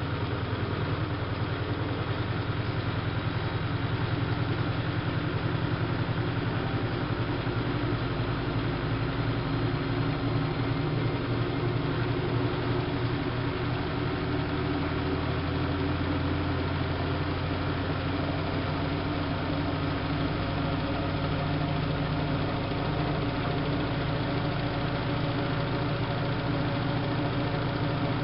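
Siemens Siwamat washing machine running, its motor and turning drum giving a steady, continuous hum with no pauses. About twenty seconds in, the low tones shift in pitch.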